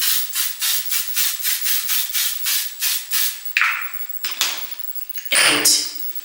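A hand-pump spray bottle sprayed rapidly over and over, about four short hisses a second, stopping about three seconds in. It is followed by a few knocks and rustles of the bottle being handled, the loudest near the end.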